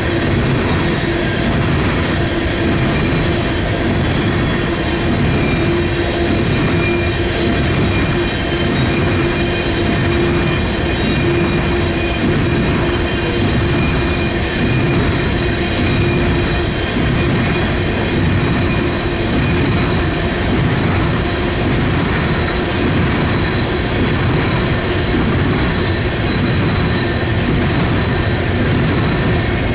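A BNSF unit coal train's hopper cars rolling past at steady speed. Steel wheels run on the rails with a repeating clatter and a thin, steady high squeal over the rumble.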